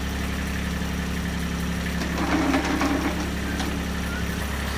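Kubota RTV 1100 utility vehicle's three-cylinder diesel engine idling steadily. About two seconds in, a brief louder, rough noise sounds over it for about a second and a half.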